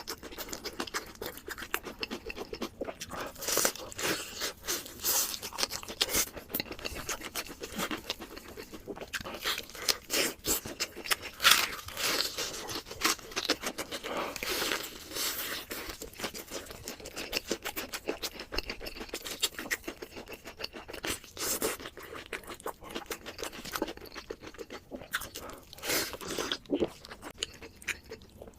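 A person eating crunchy food: irregular crunching and chewing, with louder bites now and then.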